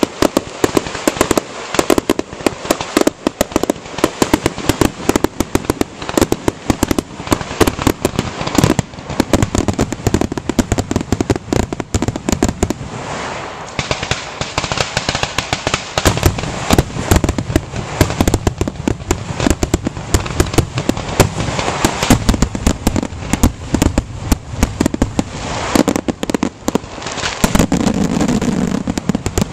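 Aerial firework shells bursting in rapid, nearly continuous succession, many sharp bangs a second with crackling between them. The barrage grows denser and heavier near the end.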